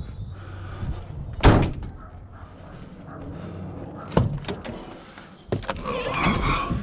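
Van doors slammed shut: two heavy bangs, about a second and a half in and again about four seconds in.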